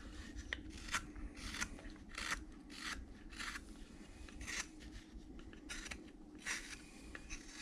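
Hand-held carving blade slicing shavings from a basswood-style bandsaw blank, a series of short, crisp cuts about one every half second to a second as the boot is rounded and tapered.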